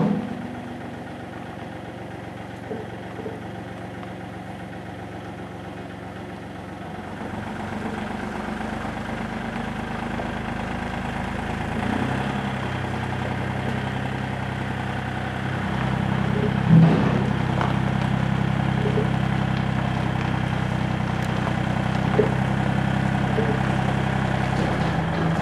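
A vehicle engine running slowly and steadily. It gets louder in steps about 7, 12 and 16 seconds in, as if it is taking on more load or coming closer.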